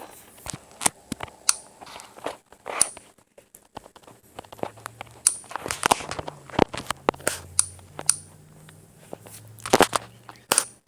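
A ceiling fan being broken apart: irregular crunches, knocks and clicks of its parts. From about four seconds in there is also a low steady hum.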